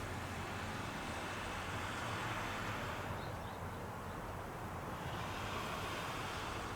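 Steady running noise of an Ohmi Railway 800-series electric train, a smooth even rumble with a low hum.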